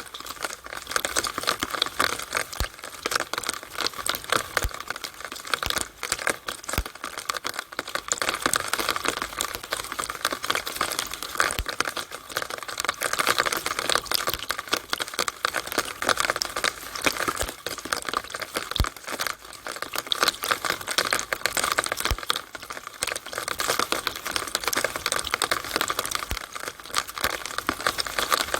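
Rainwater running down a drainpipe on a rainy day: a dense, uneven patter of drips and splashes that keeps on steadily.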